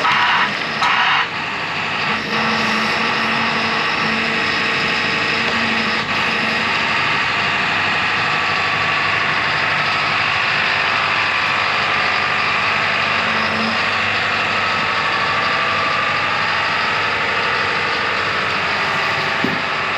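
Large diesel engine of heavy equipment running steadily.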